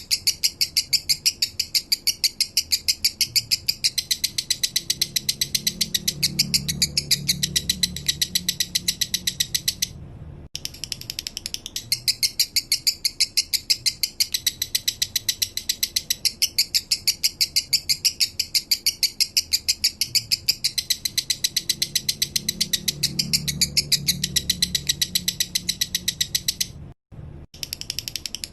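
Male lovebird singing a long, fast, even run of high, sharp chirps, about eight a second, that breaks off briefly twice.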